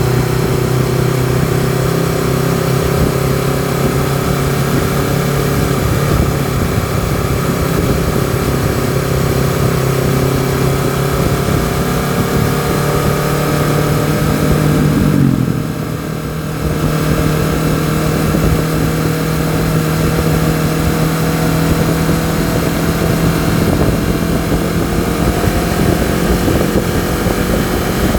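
Honda CBR250RR's parallel-twin engine and exhaust running at steady road speed, with wind rush over it. About halfway through the sound dips briefly and the pitch shifts, then it settles back into a steady drone.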